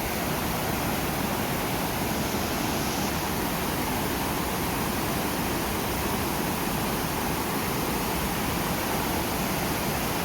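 Rushing mountain stream, a steady loud rush of water.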